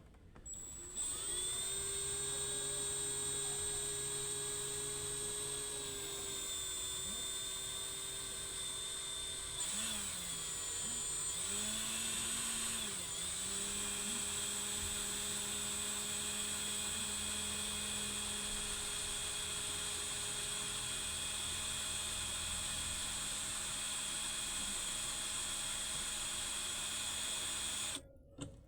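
A motor running with a steady high-pitched whine, its pitch dipping briefly a few times near the middle, then cutting off suddenly near the end.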